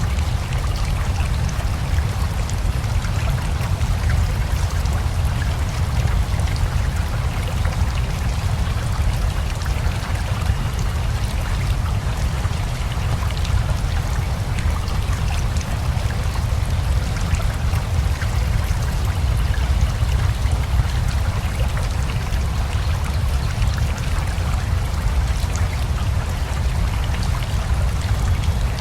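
Steady rain together with a rushing river: a continuous, even water noise with a deep low rumble beneath a fine patter of drops.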